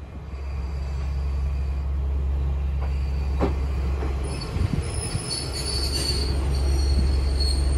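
KiHa 40-series diesel railcar pulling into a station: a low diesel rumble with a few wheel clacks. From about five seconds in, high-pitched brake squeal rises as it slows to stop.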